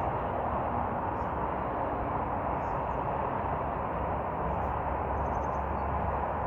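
Steady distant road-traffic noise, a continuous rushing roar, with a few faint short high chirps, likely small birds, and a faint drawn-out low tone beneath.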